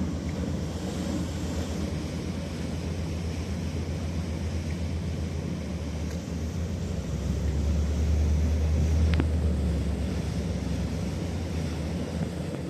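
Boat engine running at low speed, a steady low rumble that swells louder for a few seconds past the middle, with wind buffeting the microphone.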